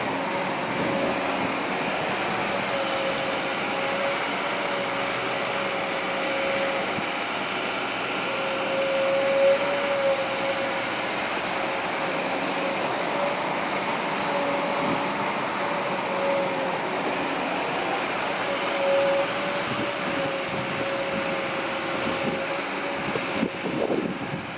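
Heavy diesel machinery working, most likely the Kobelco SK200-8 excavator's engine and hydraulics: a steady engine drone with a whine that dips and rises in pitch every few seconds as the load changes. A few knocks near the end.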